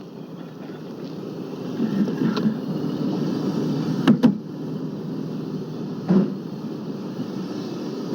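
Steady rumbling of a railway train, with two sharp knocks close together about four seconds in and another about six seconds in.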